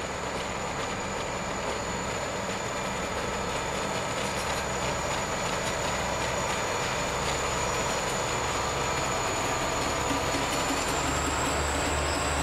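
Diesel locomotive approaching and rolling by: a steady low engine rumble over wheel and rail noise, growing gradually louder.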